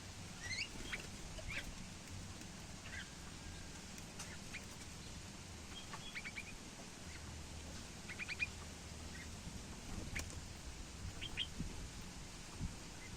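Small birds chirping: short, scattered chirps and quick clusters of notes, over a steady low hum.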